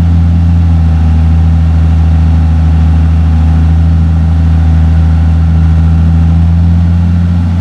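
John Deere 6068 six-cylinder diesel engine in a Fabtek 153 harvester running at a steady idle with an even low drone, warming up after a thermostat replacement.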